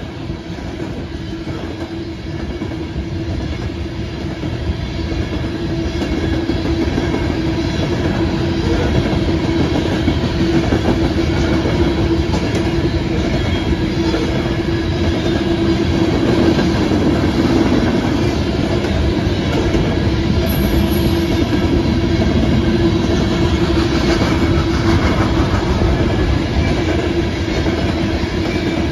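Coal hopper cars of a Norfolk Southern freight train rolling past, not very fast, steel wheels on the rails, growing louder over the first several seconds and then holding steady. A steady tone runs under the rumble.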